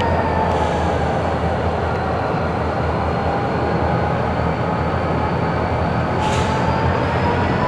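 Train running in a rail yard: a steady rumble with a high whine that slowly wavers in pitch, and a short hiss about six seconds in.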